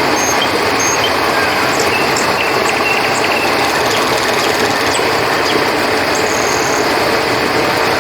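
Steady rush of flowing river water, with a few short high chirps over it.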